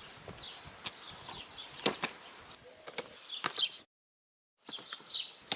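Birds chirping with several sharp knocks or clacks, the loudest about two seconds in; the sound cuts out completely for under a second just past the middle.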